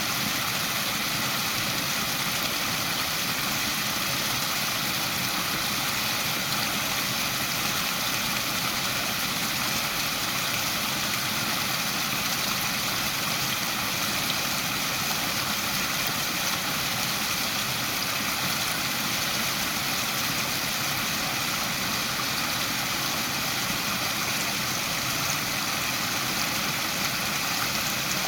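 Waterfall: falling water rushing in a steady, even noise that never changes in level.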